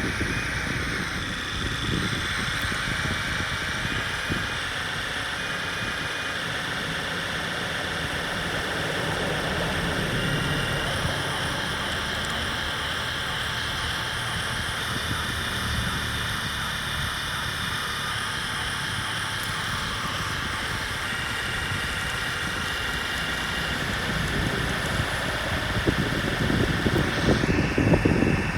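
Radio-controlled model construction machinery running: a steady whine of electric drive motors and gears over a rough low rattle, which grows louder and more ragged near the end.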